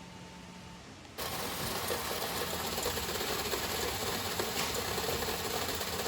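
Steady mechanical rattling and clattering that starts abruptly about a second in.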